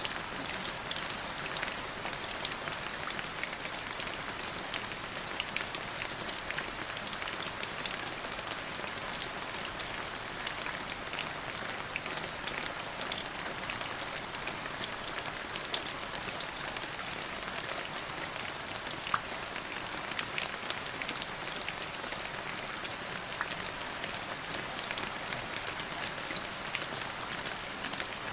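Rain falling steadily: an even hiss with many sharp drop ticks scattered through it.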